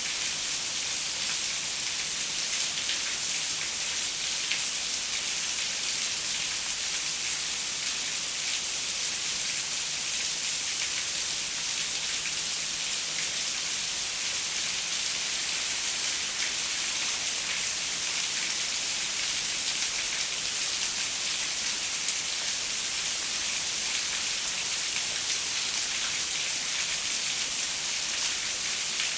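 Steady rain pattering on a window, a constant hiss of many small drops.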